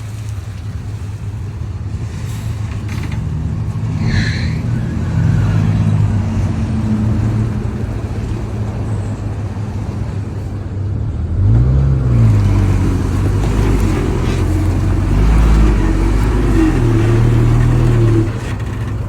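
Heavy truck's engine running and labouring, its pitch rising and falling as it revs, louder in the second half, with a brief hiss about four seconds in.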